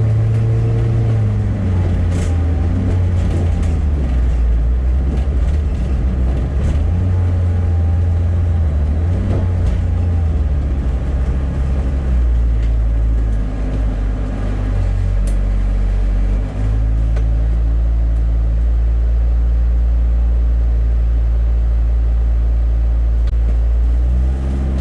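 Bus engine and drivetrain heard from inside the cabin, a loud low drone whose pitch rises and falls as the bus drives on. About two thirds of the way through it dips briefly, then settles into a steady, even hum.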